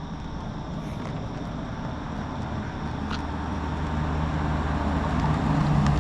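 Car engine running with a low, steady drone that grows steadily louder throughout.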